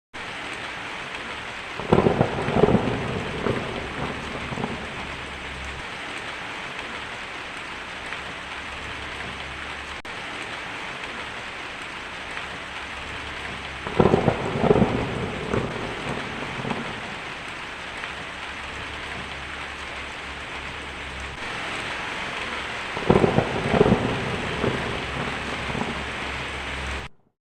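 Steady heavy rain with thunder rolling three times, each a cluster of cracks and rumbles lasting a few seconds and the loudest thing heard. The rain grows a little louder about three-quarters of the way through, and everything cuts off suddenly just before the end.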